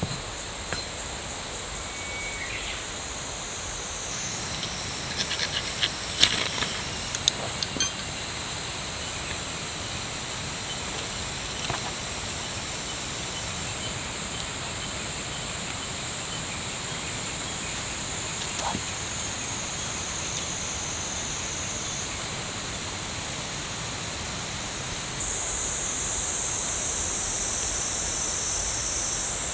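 A chorus of insects trilling steadily at a high pitch. There are a few light clicks and knocks about six to eight seconds in, and the chorus jumps louder suddenly near the end.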